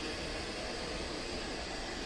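Kilgone robot vacuum running: a steady whir from its suction fan and brushes.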